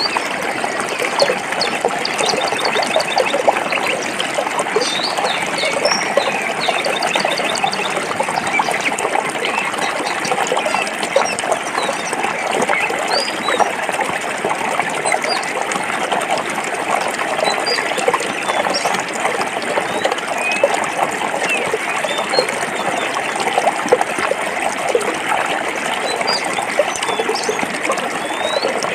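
Stream water babbling and splashing steadily over rocks, with small bird chirps above it now and then, in quick repeated runs during the first several seconds.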